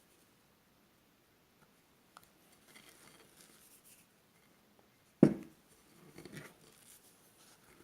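Spatula folding and scraping thick macaron batter around a mixing bowl during macaronage: soft wet scrapes and squishes. A single sharp knock comes about five seconds in.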